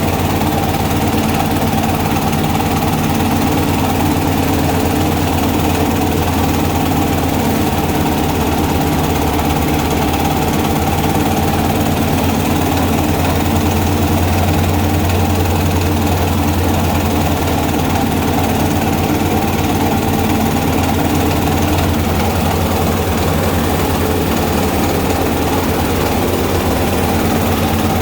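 Engine-driven rice bran grinding mill running steadily under power.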